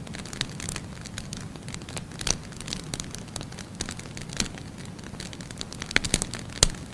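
Firewood burning in a fireplace: a steady low rumble of flames with irregular crackles and sharp pops, a cluster of loud snaps near the end.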